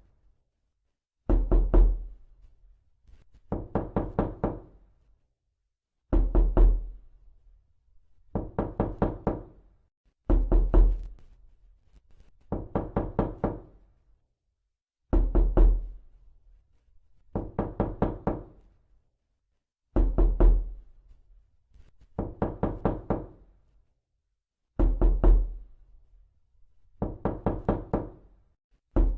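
Knocking: short runs of four to six quick knocks, one run about every two seconds, each with a low hollow thud under the strikes.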